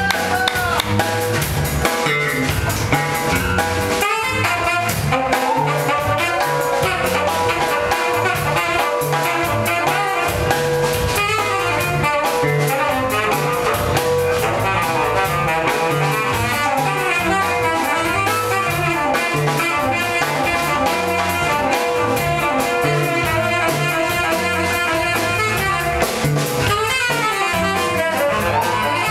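A funk band playing a saxophone-led instrumental, with the horns over a steady drum-kit groove and a repeating bass line.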